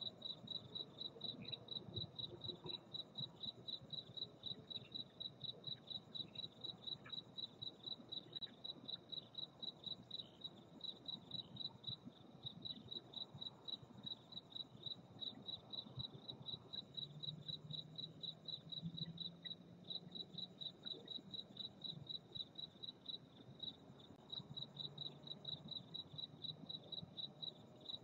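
A cricket chirping steadily, a high, evenly repeated chirp that does not let up.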